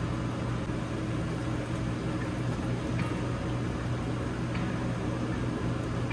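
Steady hum of a camper's rooftop air conditioner running on high, a low drone under a fan noise.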